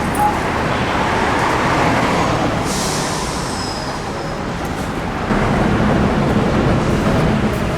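Steady road-traffic noise with a motor vehicle's engine running close by, its hum growing stronger about five seconds in, and a brief hiss near the middle.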